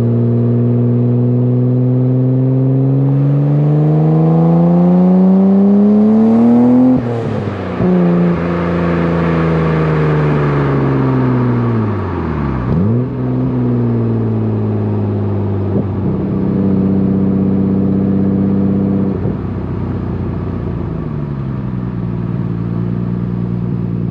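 Nissan Skyline R32 GT-R's twin-turbo inline-six heard through its aftermarket exhaust, recorded at the tailpipe. The engine note climbs steadily under acceleration for about seven seconds, then drops sharply with a brief hiss. The pitch sinks and picks up again about halfway through, and the car settles into steadier running toward the end.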